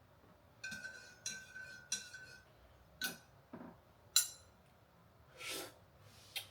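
Light clinks of hard objects that ring briefly, three in quick succession, then a few sharper clicks and a short rustle near the end.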